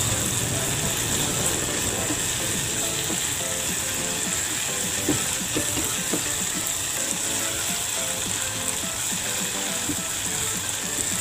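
Ground spice paste frying in oil in a small saucepan, with a steady sizzle, while a silicone spatula stirs and scrapes it in quick, irregular strokes.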